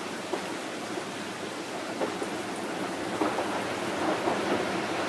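Very strong wind rushing through trees: a steady noise with scattered small cracks and ticks that get busier, and the whole a little louder, after about three seconds.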